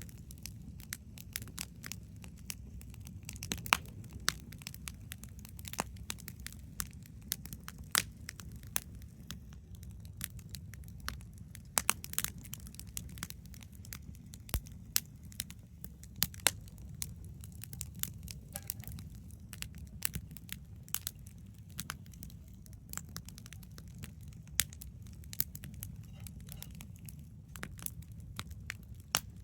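Wood campfire crackling: irregular sharp pops and snaps, several a second and some much louder than the rest, over a low steady rumble.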